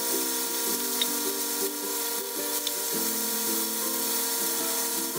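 Chicken pieces shallow-frying in a little oil, a faint steady sizzle, under background music that changes note every second or so.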